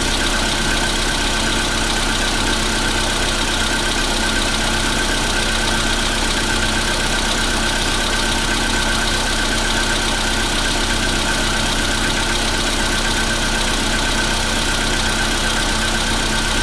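Volkswagen Polo Sedan's CFNA 1.6-litre four-cylinder petrol engine idling steadily while still warming up after a cold start. It carries the knock that this engine makes on cold starts.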